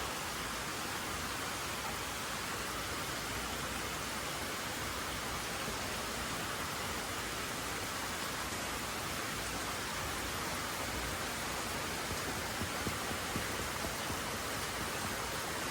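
Steady rain falling, an even hiss, with a few faint taps near the end.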